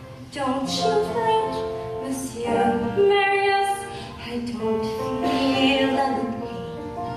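A female voice singing a slow musical-theatre ballad with held, wavering notes over instrumental accompaniment.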